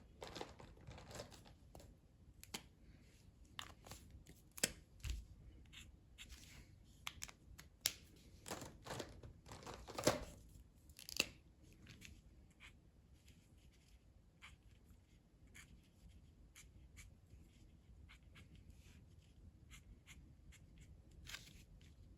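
Faint drawing strokes on paper: a marker or pencil tip scratching and tapping in short strokes, busier and louder between about seven and eleven seconds in, then sparser.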